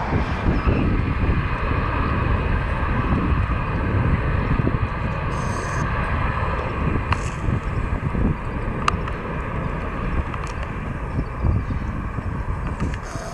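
Fixed-wing airplane's engines running at takeoff power during the takeoff roll and climb-out, a steady engine noise.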